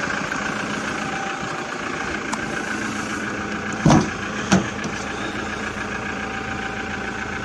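Toyota Hilux diesel engine idling steadily, with two short clunks about half a second apart near the middle.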